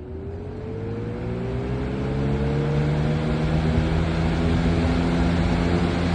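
Lasko Cool Colors box fan starting up on medium speed: the motor's hum and whine rise in pitch and the rush of air grows louder as the blades spin up, levelling off into a steady hum and airflow about four seconds in.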